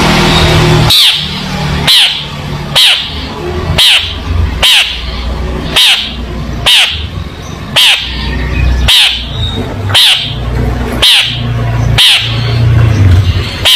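Long-tailed shrike (cendet) giving a harsh, falling call over and over, about once a second, over a steady low hum.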